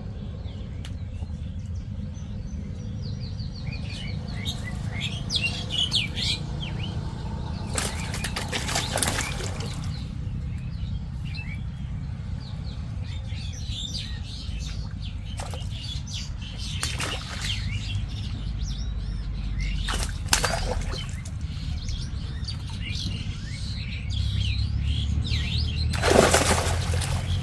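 Birds chirping over a steady low rumble, with a few brief rushing noises, the loudest near the end.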